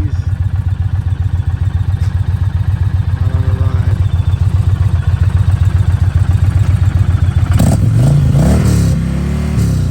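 2023 Indian Challenger Elite's V-twin running through TAB Performance BAM sticks slip-on mufflers with medium baffles: a deep, throaty, steady pulsing idle. About three-quarters of the way in it is revved a couple of times, the pitch rising and falling.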